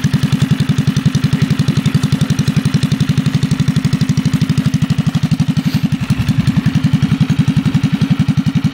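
Rat-rod mini bike's small Briggs & Stratton engine idling steadily, with an even pulse of about ten firing strokes a second.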